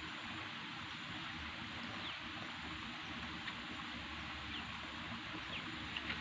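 Steady outdoor rushing noise with a few faint, short, high chirps scattered through it.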